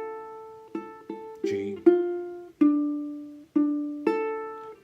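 A plucked string instrument picking out a slow melody one note at a time, about seven notes, each left to ring and fade, the melody notes taken from a G minor chord shape.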